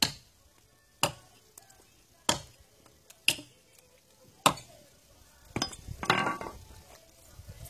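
Pieces of wood being set one by one onto a criss-cross bonfire stack: five sharp wooden clacks about a second apart, then a short scraping rustle as a piece is shifted into place.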